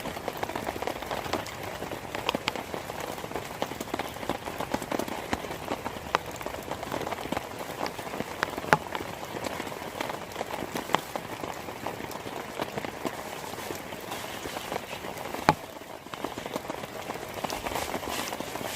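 Heavy rain falling, drops hitting a surface in a dense stream of small ticks over a steady hiss. A few louder single drop hits stand out, the sharpest about fifteen seconds in.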